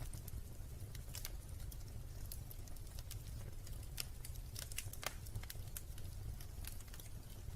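Wood fire crackling in a fireplace: scattered sharp pops and snaps, a few to several a second, over a low steady rumble.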